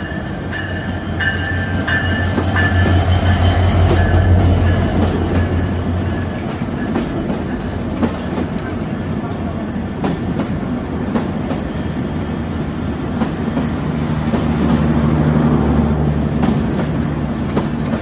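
Train at a station with its diesel locomotive's engine running with a low, rhythmic note, loudest about four seconds in and swelling again near the end. Wheels click over the rail joints throughout.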